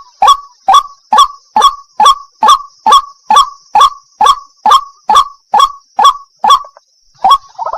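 White-breasted waterhen giving its repeated 'wak' call: short, falling notes about two a second in a steady rhythm. The calls break off near the end, with one last call just before a different sound begins.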